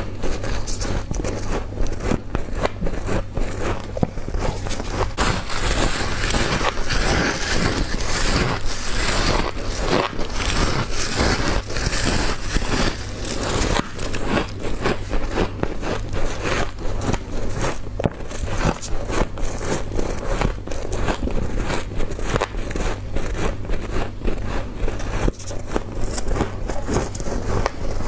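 Close biting and chewing of soft frost ice: a dense, continuous crunching crackle of many small bites, grainier and hissier for several seconds in the middle.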